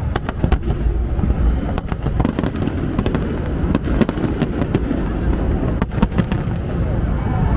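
Fireworks display: a rapid, irregular string of sharp cracks and bangs over a continuous low rumble of bursts.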